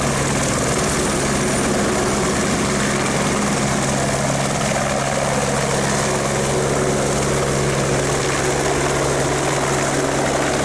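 Aircraft engine running steadily at close range, with a low, even hum.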